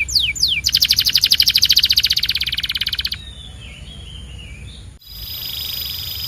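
Canary singing: a few quick falling whistled notes, then a fast rolling trill for about two and a half seconds, followed by a softer warble. About five seconds in the recording cuts abruptly to another passage with a steady high whistle tone under a trill.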